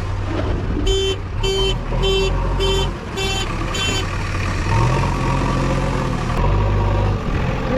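A vehicle's reversing alarm beeps six times, about two beeps a second, over a steady diesel engine running at a worksite where a backhoe loader is loading tipper trucks. The engine note rises briefly about five seconds in.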